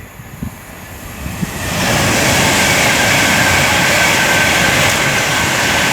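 Class 390 Pendolino electric express train passing along the West Coast Main Line. Its rushing noise swells quickly to a loud, steady level about two seconds in, with a faint high whine running over it.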